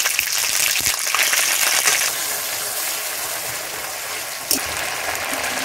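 Ginger-garlic paste frying in hot mustard oil in an aluminium kadai, sizzling with a dense crackle and spatter, while a spatula stirs it.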